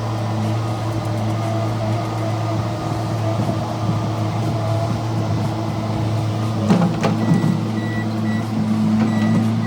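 Vehicle engine running steadily, with a brief clatter about seven seconds in and a few short high beeps near the end.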